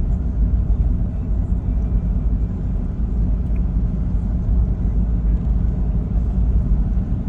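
2000 Toyota 4Runner driving, heard from inside the cabin: a steady low rumble of engine and road noise.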